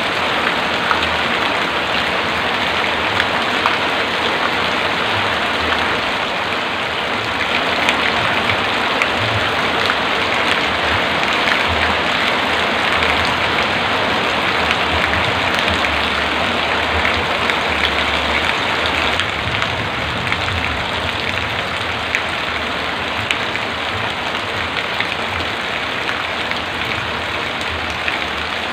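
Heavy rain falling steadily, a dense even hiss of drops with fine individual ticks and a low rumble underneath.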